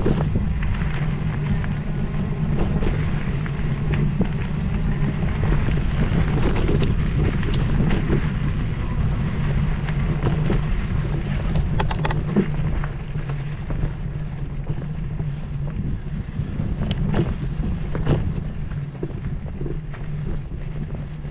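Steady low rumble with wind buffeting the microphone, broken by scattered sharp clicks and knocks.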